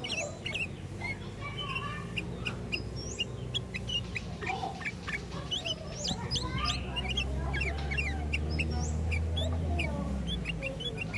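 Sooty-headed bulbuls chirping and calling in a quick run of short rising and falling whistled notes. A low hum sits under them from about six to ten seconds in.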